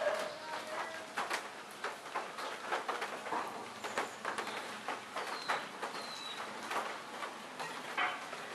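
Rain beginning to fall: scattered drops striking in irregular sharp taps. Birds call through it, with two short falling whistles about five and six seconds in.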